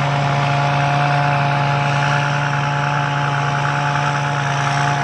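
Rice combine harvester's engine running at a steady speed: a constant low drone with a steady higher whine above it.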